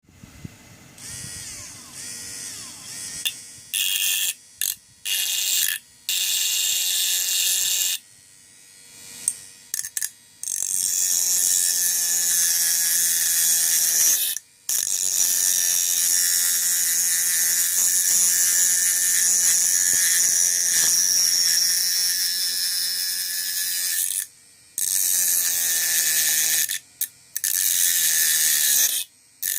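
Homemade 3-volt DC mini electric grinder running: its small motor is switched on and off in several short bursts, then runs steadily for about fourteen seconds with one brief stop, then comes in short bursts again.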